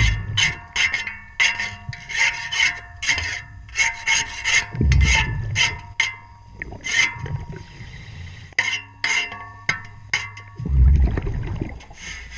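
Rhythmic scraping strokes on a boat propeller underwater, two or three a second, each ringing. Deep bubbling rumbles from a diver's regulator exhaust come three times, about five to six seconds apart.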